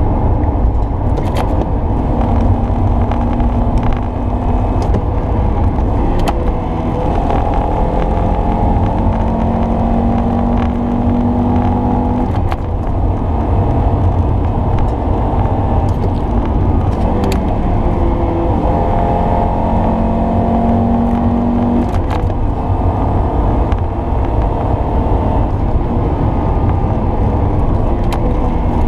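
Car engine and road noise heard from inside the footwell while driving, a steady low rumble. Twice the engine note climbs as the car accelerates and then drops away abruptly, as with a gear change or lifting off the pedal. A few brief clicks sound through it.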